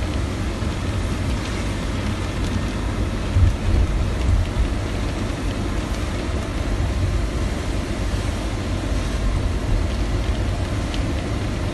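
Heavy rain and wind heard from inside a car: a steady hiss of rain on the windshield and roof over a low rumble, with a few faint ticks of drops on the glass.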